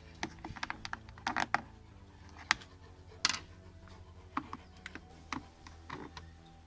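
Irregular clicks, taps and knocks of plastic car interior trim and clips being handled and pried loose, with a sharper snap about two and a half seconds in and another near the middle.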